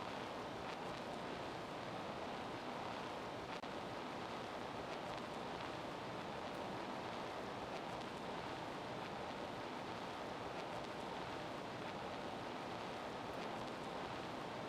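Steady rushing background noise with no distinct events, only a few faint ticks.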